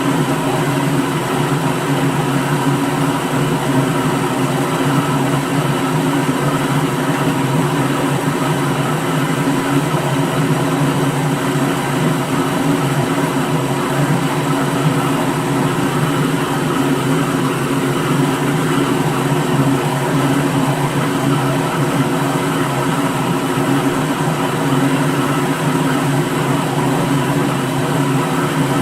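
Electric kitchen blender motor running steadily at constant speed, a continuous whirring hum that does not change.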